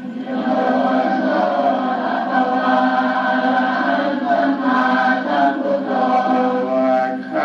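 A group of voices chanting Pali verses of Buddhist homage in unison, a slow recitation on held, evenly pitched notes.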